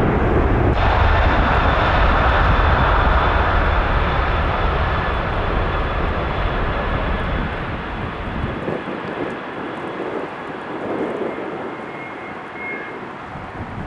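Jet airliner engine noise with a faint high whine, loud at first and fading steadily as the aircraft moves away.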